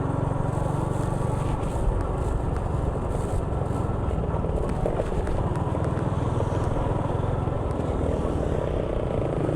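Steady engine and road noise of a vehicle on the move, a continuous low rumble without breaks.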